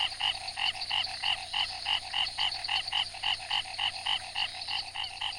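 Male frog calling at night in a fast, regular series of short croaking notes, about four or five a second. These are breeding calls, made to stake out a territory and attract females.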